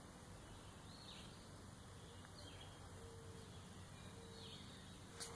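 Faint bird calls: short downward chirps repeated about once a second over quiet outdoor background.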